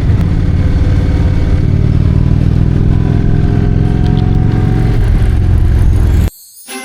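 Large V-twin motorcycle engine running loud and close, its note rising slightly over the middle, then cut off abruptly about six seconds in.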